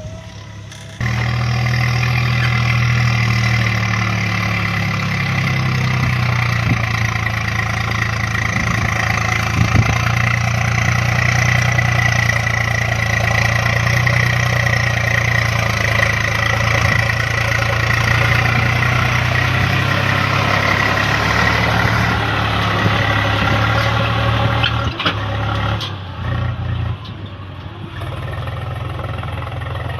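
Swaraj tractor's diesel engine running, coming in loud and sudden about a second in and holding a steady note, then dropping to a lower, quieter running near the end.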